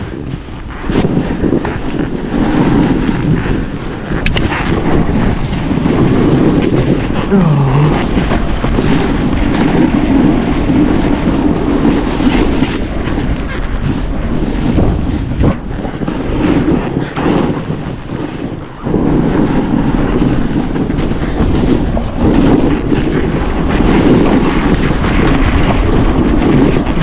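Snowboard sliding and scraping through snow, with wind rumbling on the microphone. The noise is loud and continuous, with brief dips around 16 and 19 seconds in.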